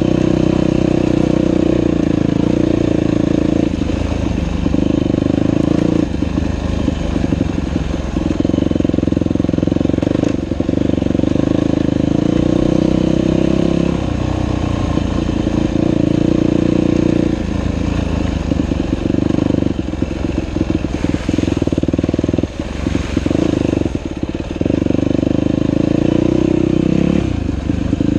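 Dirt bike engine running on a trail ride, held on the throttle with repeated brief drops as the throttle is rolled off and back on.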